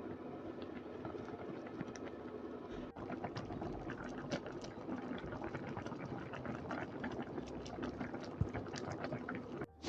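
Strawberry jam simmering in a pan, bubbling with many small irregular pops over a faint steady hum.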